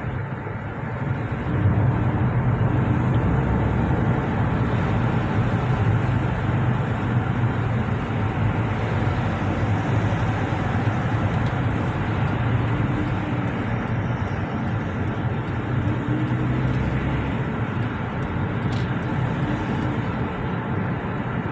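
Steady low rumble of road traffic, an even wash of vehicle noise with no single event standing out.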